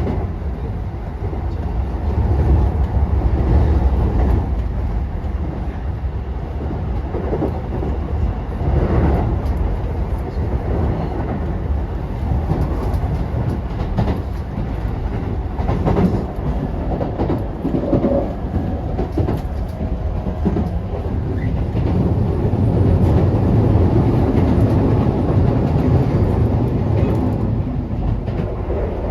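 Keisei 3000 series electric train running, heard from inside the passenger car: a steady low rumble with occasional wheel clacks over the rail joints.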